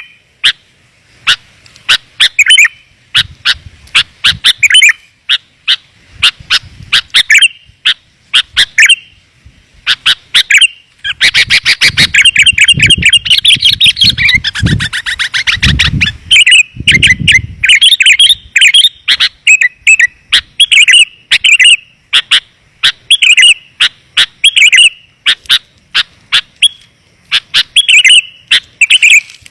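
Sooty-headed bulbul (kutilang) lure call: loud, quick chirping notes in short repeated phrases, with a dense rapid chattering run in the middle. A low rumble sits underneath during that run.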